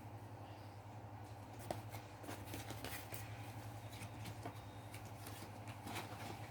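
Paper and card being handled for a paper-craft box: scattered rustles and light clicks, with one sharper click nearly two seconds in, over a steady low hum.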